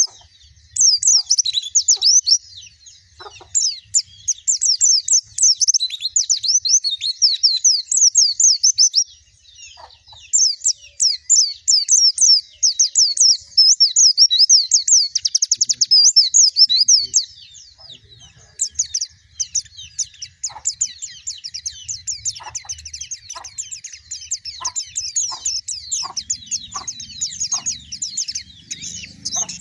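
White-eye (pleci) song: long runs of rapid, high twittering chirps, with brief pauses about ten and eighteen seconds in.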